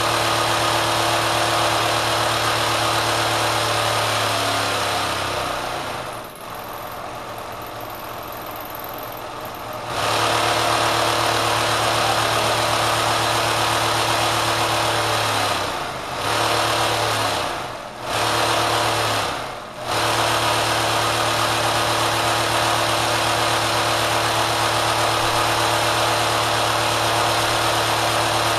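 Kenmore sewing machine driven by a swapped-in 3/4 hp electric motor, running at high speed with a steady hum. About five seconds in the pitch falls as it spins down, it comes back on sharply near ten seconds, then the speed drops briefly three times before it runs steadily again.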